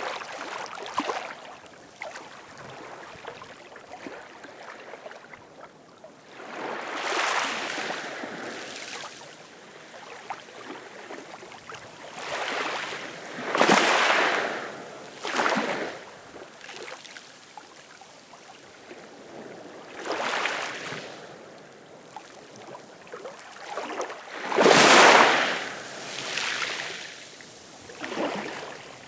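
Ocean waves washing in, each one swelling up and fading away every few seconds. The biggest wave comes about 25 seconds in.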